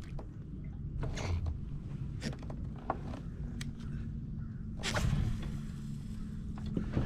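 Light clicks and creaks from handling fishing tackle in a kayak, with a couple of brief swishes, over a low steady rumble of wind on the microphone.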